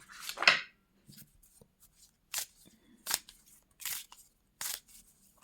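Tarot cards being handled: a series of short papery swishes and snaps, about five, the first the loudest.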